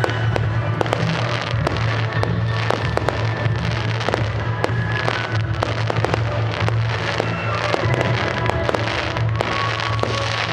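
Display fireworks going off in quick succession: many sharp bangs and crackles, with music playing underneath.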